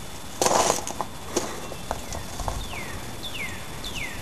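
A bird calling over and over, short whistled notes that each fall in pitch, about one every half second or so from about two seconds in. Before that, a short burst of noise and a few light clicks.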